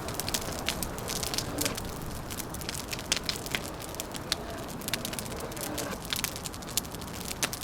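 Wood fire crackling, with irregular sharp pops and snaps scattered over a steady low rushing background.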